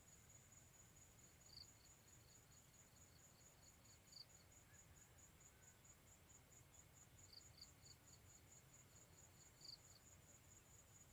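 Faint crickets trilling outdoors in a fast, steady pulse, high-pitched. Twice, a shorter run of slightly lower chirps comes in for about three seconds.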